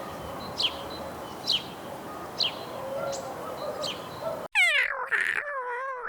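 A small bird chirping: short, high, downward-sliding chirps about once a second over a steady background hiss. About four and a half seconds in, the sound cuts to a cat meowing.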